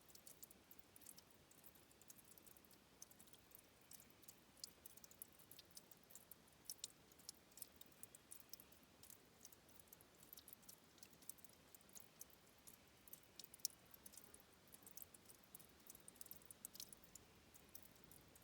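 Faint, irregular high ticks and clicks of water trickling and dripping at a stream's headwater spring, over a soft hiss.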